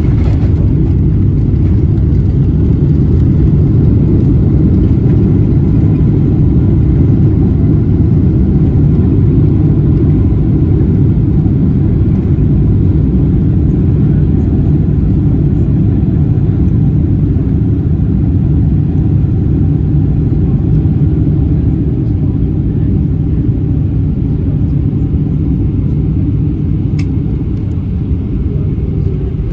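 Loud, steady low rumble in the cabin of a Boeing 777-300ER rolling out on the runway after touchdown, from its engines and wheels, easing off a little near the end as the airliner slows.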